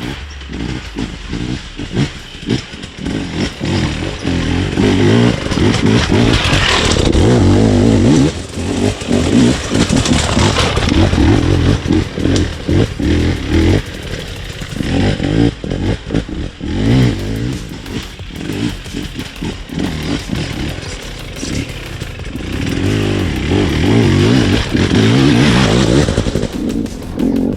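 KTM EXC 250 two-stroke enduro bike ridden on a trail, its engine revving up and down with the throttle. It is loudest from about five to twelve seconds in and again near the end.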